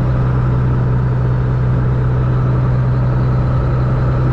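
Semi truck driving: a steady low engine drone with road noise, unchanging throughout.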